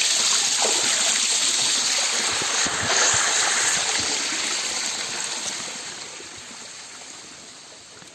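Clear mountain stream rushing, loud at first, then fading away over the last few seconds.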